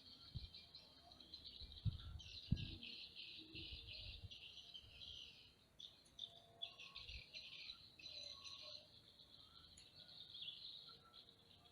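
Faint chorus of high-pitched wild bird chirping, with a few dull low thumps in the first few seconds and one more about seven seconds in.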